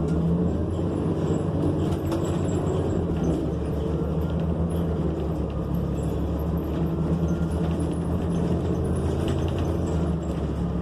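Cummins Westport ISL G natural-gas engine and Allison transmission of a New Flyer XN40 transit bus running steadily, heard from inside the passenger cabin as a steady low hum with road noise.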